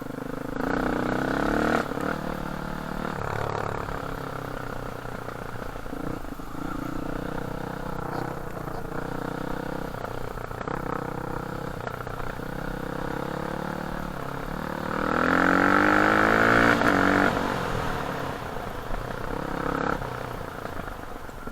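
Enduro motorcycle engine running while being ridden, its pitch rising and falling with the throttle, and a louder rising rev about fifteen seconds in.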